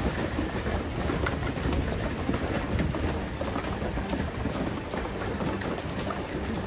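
Rain falling in a storm, a steady hiss of drops with many small ticks, over a low rumble of wind on the microphone.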